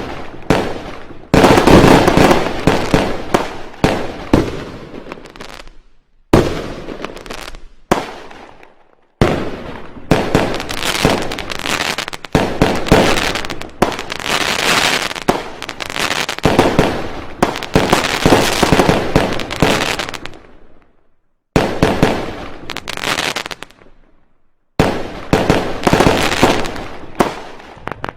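Fireworks going off in dense volleys of bangs and crackling. The volleys stop abruptly and restart after short breaks several times.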